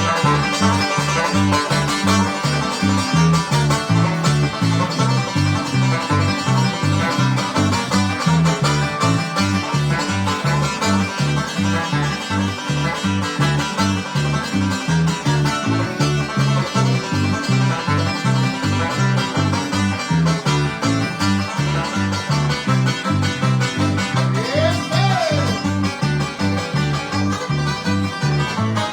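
Bluegrass instrumental led by a five-string banjo picking a driving tune, with the band's steady, pulsing bass notes underneath.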